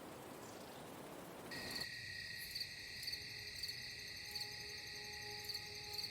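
A soft, even rush like a breeze cuts off about a second and a half in, replaced by a steady high insect chirring, like crickets, with a louder chirp every half-second to second. Faint sustained tones sit underneath.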